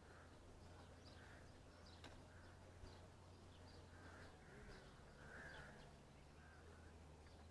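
Faint bird calls, repeated every second or so with a few short higher chirps, over a low steady hum.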